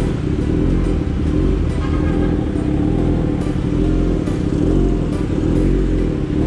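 Suzuki motorcycle engine running steadily at low speed while rolling slowly, with music playing underneath.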